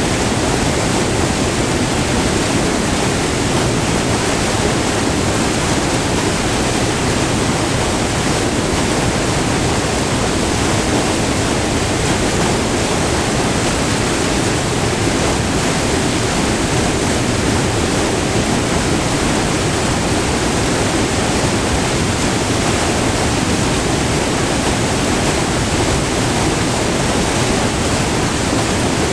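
White water pouring over a short, multi-tiered river waterfall, recorded up close: a loud, steady, unbroken rush with a deep low rumble.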